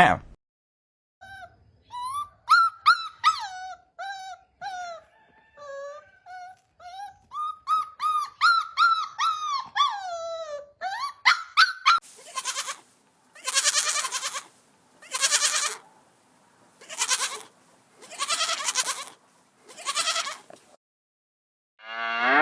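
Animal calls in two runs: first a string of short, high, squeaky cries that slide up and down in pitch, then about six longer, harsher calls spaced a second and a half or so apart.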